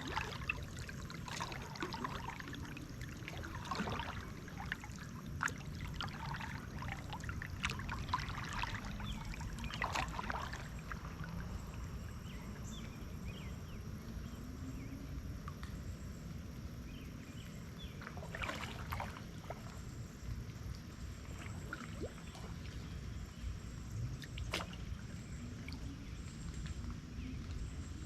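Kayak being paddled: water splashing and trickling off the paddle blades in irregular strokes, over a steady low rumble.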